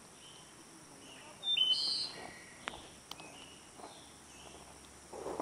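Small birds chirping: scattered short, high chirps over a faint steady hiss of outdoor ambience, with the loudest cluster of chirps about a second and a half in.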